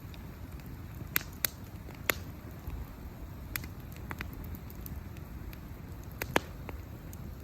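Wood campfire burning with a steady low rumble and sharp pops and crackles, the loudest pop near the end.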